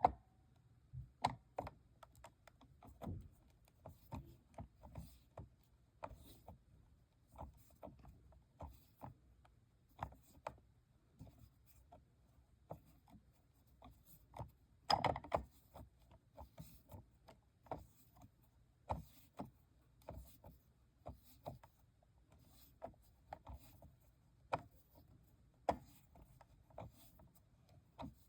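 Hands working on the plastic parts and gear wheels of an Ocean Wonders toy aquarium: scattered small clicks, taps and rubbing, with a louder clatter about fifteen seconds in.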